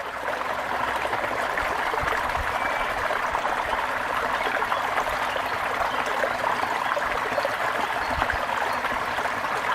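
Steady running water with a fine, even babble, like a stream.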